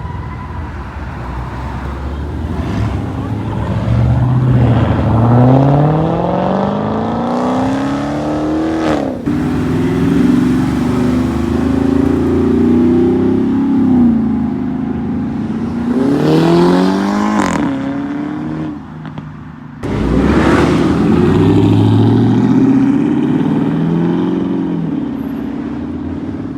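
Cars accelerating hard away from a standstill. The engine note climbs steeply and drops sharply at gear changes, more than once, with loud revving between the pulls.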